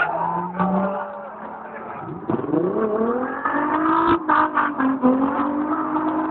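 Several car engines running and revving together, one revving up sharply about two seconds in, with a few sharp knocks near the middle.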